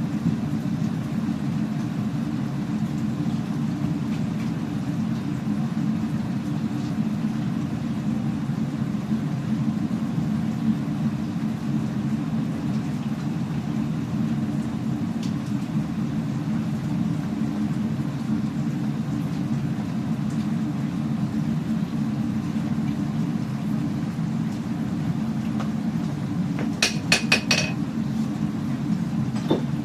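A forge running with a steady low roar. A quick run of sharp metallic clinks comes about 27 seconds in, and one more clink near the end.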